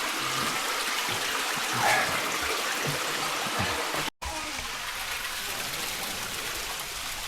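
Steady rush of running water, a stream splashing over rock, with a few faint knocks in the first half; the sound breaks off for an instant about four seconds in and the water goes on.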